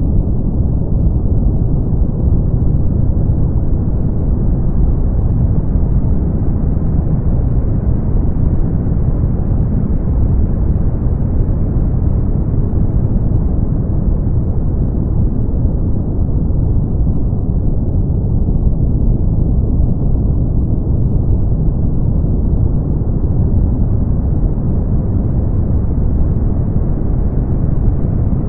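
Steady brown noise: a loud, even, deep rumbling hiss, strongest in the bass and dull at the top, with no changes or events.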